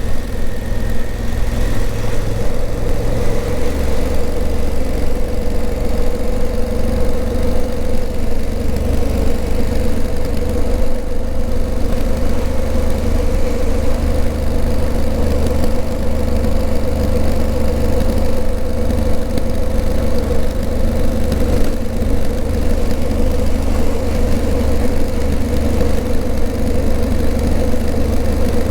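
Honda CRF1000L Africa Twin's 998 cc parallel-twin engine running at a steady pace while being ridden, under a constant rush of wind and road noise.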